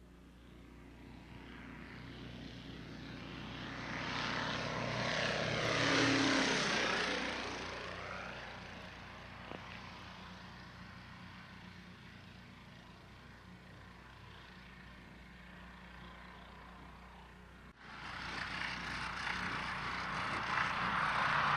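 Propeller planes, a Stearman biplane and a Cessna Bird Dog, on a low pass. Their engines swell to loudest about six seconds in, drop in pitch as they go by, and fade away. Near the end another propeller aircraft's engine sound starts suddenly and grows louder.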